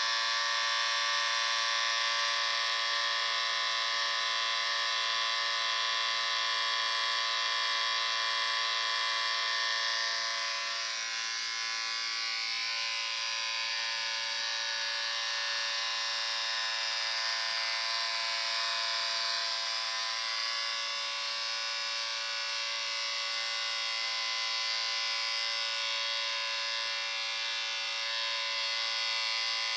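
Electric shaver running continuously, a steady high buzz that dips slightly in level about ten seconds in.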